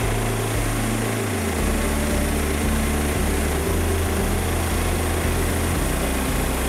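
Portable bandsaw sawmill running on its 13.5 horsepower Briggs & Stratton gas engine, a steady engine note whose low pitch drops a little about a second and a half in.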